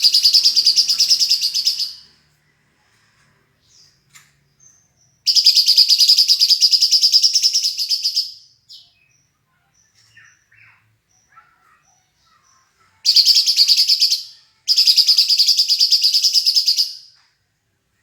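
A songbird singing a high, rapid, evenly pulsed trill in four bursts of about two to three seconds each, with faint short chirps between them. It is a master recording of bird song, played to teach caged songbirds.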